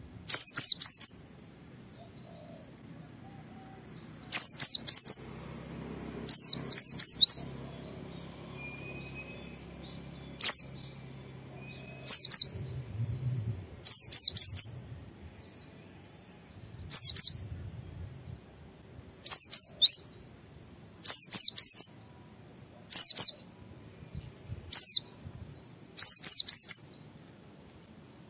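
White-eye (pleci) singing: short, high phrases of quick, steeply falling notes, usually two or three together, repeated every second or two.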